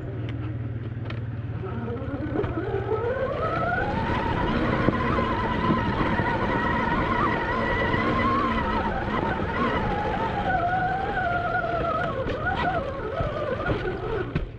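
Admitjet Armor electric dirt bike's motor whining as it accelerates: the pitch climbs for about two seconds, holds, then falls and wavers as the throttle changes, and drops off suddenly at the end. Wind buffets the unprotected microphone underneath.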